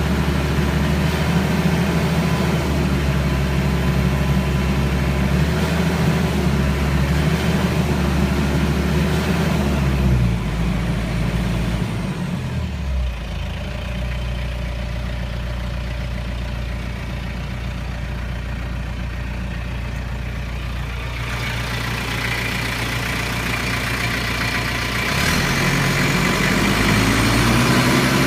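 Kubota MZ655 tractor's turbocharged diesel engine running at raised revs, dropping to a lower idle about ten seconds in, then revving up again near the end. A faint high whine falls and rises with the engine speed.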